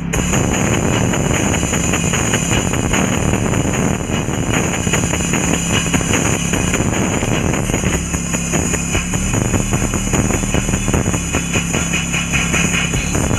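A car running steadily, its engine and road noise a continuous low rumble with a steady hum, and music mixed in under it.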